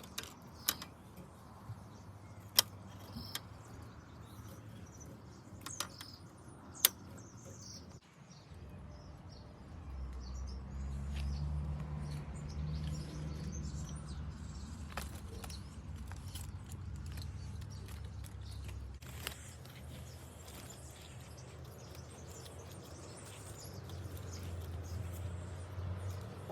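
Small birds chirping faintly over outdoor background noise, with several sharp clicks in the first seven seconds. A low rumble like a passing vehicle swells up about ten seconds in, runs for roughly nine seconds, then eases off.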